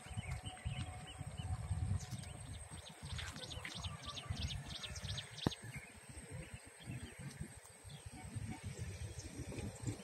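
Small birds chirping, with a quick run of short calls a few seconds in, over a low, uneven rumble.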